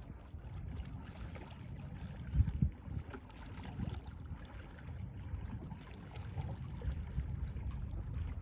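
Sea waves washing on the shore, a steady low rumble of surf with a fainter hiss above it and a brief loud thump about two and a half seconds in.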